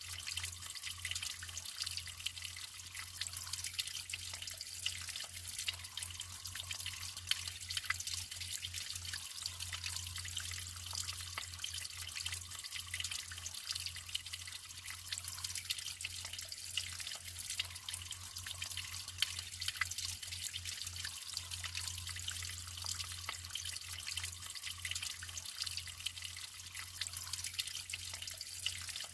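Natural water flowing and trickling: a steady high hiss full of small dripping, splashing drops.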